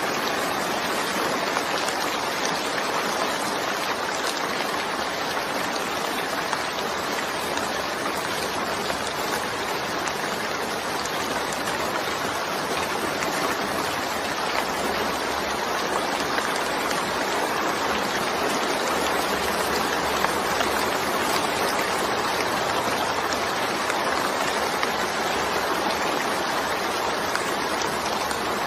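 Steady rain falling, a dense even hiss that does not change.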